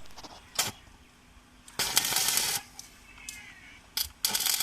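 Workshop handling noises: a sharp metal knock, then harsh scrapes and clinks of metal parts and tools, with one longer scrape in the middle and a click and short scrape near the end.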